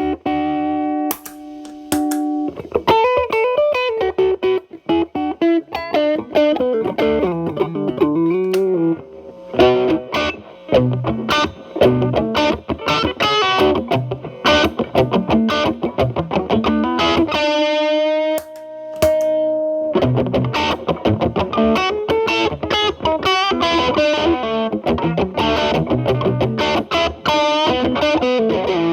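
Electric guitar (a Telecaster) played through an MI Audio Crunch Box distortion pedal into a Marshall Valvestate amp's clean channel: picked single-note lead lines with string bends and a held note with vibrato just past the middle, plus a few chords near the start.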